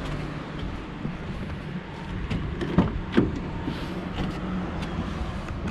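Nissan Skyline R33 GTS-T's RB25DET turbo straight-six idling with a steady low rumble, with two sharp clicks about three seconds in.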